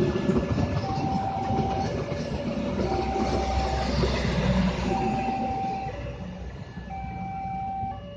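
Diesel train, led by a CC206 locomotive, running past with a broad rumble and rail noise that fade over the last couple of seconds. Over it, an electronic warning alarm switches between two steady tones about once a second.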